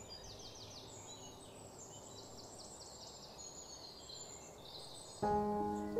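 Birds chirping faintly in short repeated high runs over a quiet outdoor background. About five seconds in, background music starts with held notes and becomes the loudest sound.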